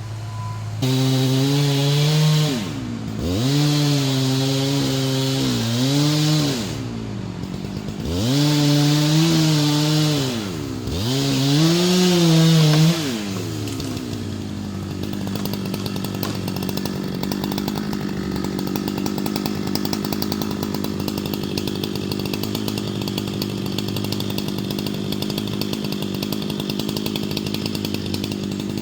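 Two-stroke chainsaw at full throttle in several bursts, its pitch sagging and recovering and dropping back between bursts about three times, as in a series of cuts. From about halfway through it runs steadily at one pitch.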